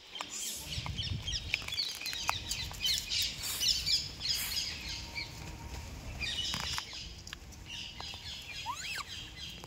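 Small birds chirping and twittering in quick bursts over a low outdoor rumble.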